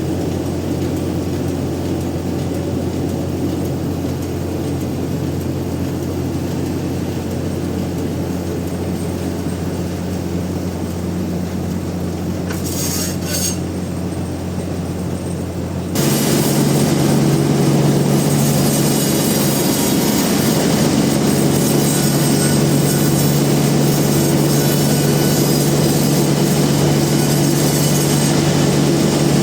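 Industrial band sawmill running with a steady low hum. About halfway through the sound changes abruptly, getting louder with a high hiss added.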